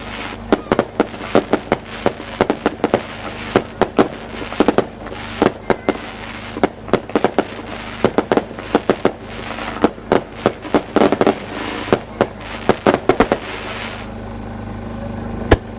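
Fireworks barrage: rapid sharp bangs of aerial shells, several a second, over a continuous crackle. It thins out about fourteen seconds in, followed by one loud bang near the end.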